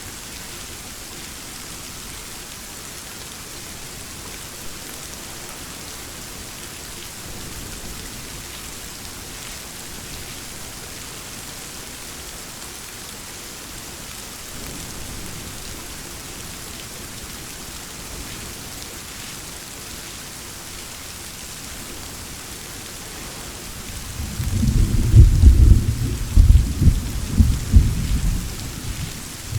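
Steady rain falling, with a faint low rumble of distant thunder about halfway through. Near the end a loud roll of thunder rumbles for about five seconds with several peaks before fading back into the rain.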